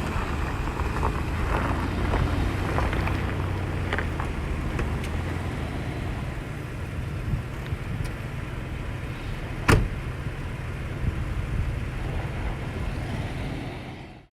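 Off-road truck driving on a dirt trail: steady engine and tyre rumble with scattered knocks, and one sharp knock about ten seconds in. The sound fades out just before the end.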